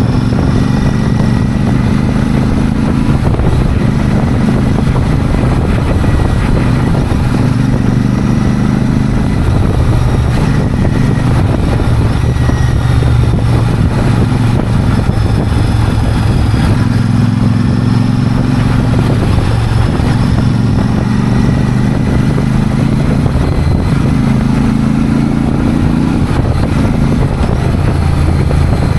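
Royal Enfield Super Meteor 650's parallel-twin engine and exhaust running loudly, its engine speed rising and falling every few seconds.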